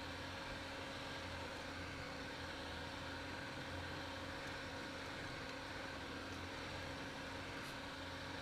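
Lada Niva (VAZ-2121) engine running with a steady drone, with an even rush of noise over it and no change in pitch.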